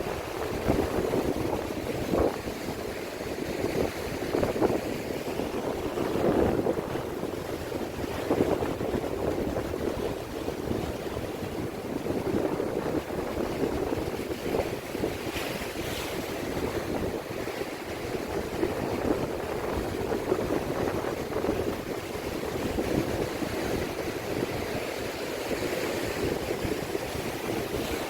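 Sea waves washing along the shore, a continuous rushing that swells and eases every couple of seconds, with wind buffeting the microphone.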